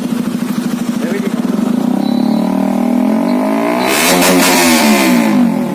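A motorcycle rides close past, its engine note rising as it approaches and dropping as it goes away, loudest about four seconds in. Another engine idles steadily underneath.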